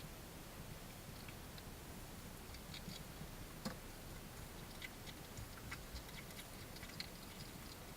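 Faint, scattered small clicks and ticks from a small animal moving and feeding, over a steady hiss.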